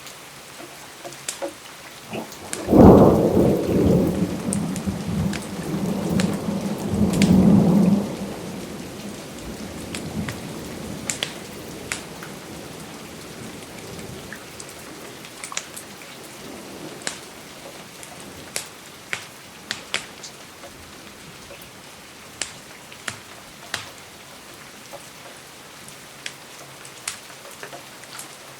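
Steady rain with a thunderclap about three seconds in that rumbles on for about five seconds and fades. Sharp, scattered crackles from a fireplace pop through the rain.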